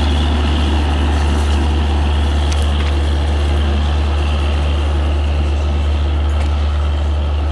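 Diesel locomotive engine running steadily at close range, a loud, even low hum with no change in pitch.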